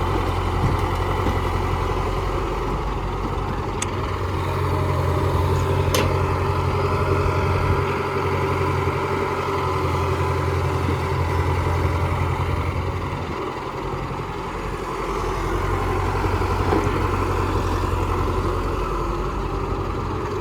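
Heavy diesel engines of tractors and a JCB backhoe loader working in mud, a steady deep drone that eases off for a moment around the middle. Two sharp clicks come a few seconds in.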